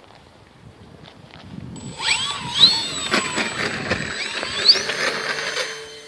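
Brushless electric motor and propeller of an RC model Cessna 182 throttling up, its whine sweeping up in pitch twice with a steady high tone above, after a quiet couple of seconds.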